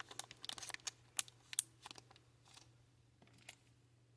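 Small plastic bead bags and items being handled on a tabletop: a quick run of light clicks and crinkles, thinning out after about two seconds to a few scattered ticks.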